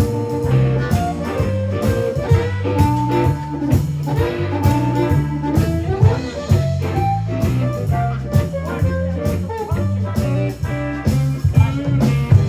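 Live blues band playing an instrumental intro: a steady bass line and drum beat under a melodic lead line.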